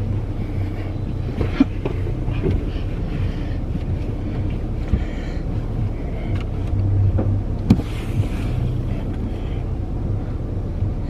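Steady low hum of an idling car engine heard from inside the cabin, with a few short clicks and knocks from handling and wiping down the interior.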